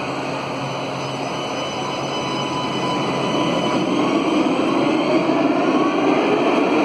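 Tram running on rails with a steady rumble; from about four seconds in, its electric motors give a whine that rises in pitch and grows louder as the tram gathers speed.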